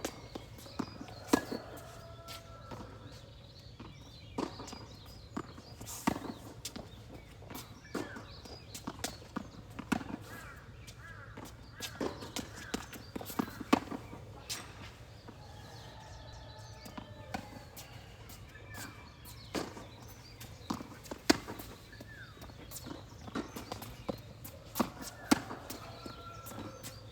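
Tennis rally: racket strikes and ball bounces as sharp, irregular pops every second or two, with footsteps on the court between them.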